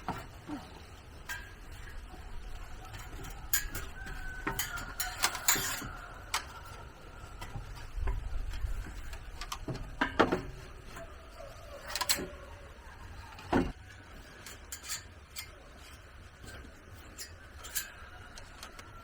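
Irregular knocks and clicks, a dozen or more spread unevenly, the loudest about halfway through and a little later, over a faint low rumble.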